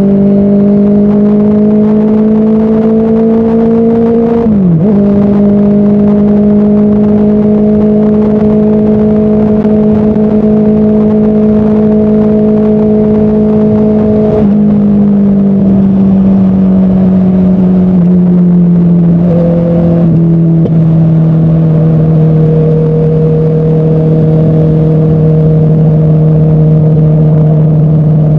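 Motorcycle engine running at steady highway cruising speed, recorded from the rider's seat with road and wind noise under it. Its pitch dips sharply and recovers about five seconds in, as at a quick gear change, then settles slowly lower around the middle as the bike eases off, and holds steady to the end.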